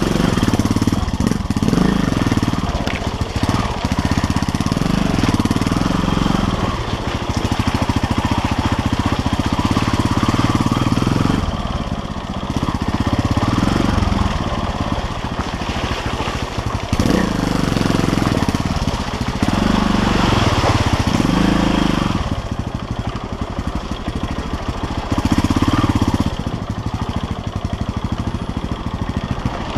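KTM LC4 350's single-cylinder four-stroke engine running while the motorcycle is ridden off-road, the throttle opened and closed again and again so the engine note swells and drops every second or two.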